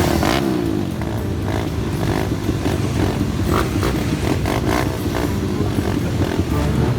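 Motorcycle engines running and revving, more than one at once, their pitch rising and falling most plainly around the start.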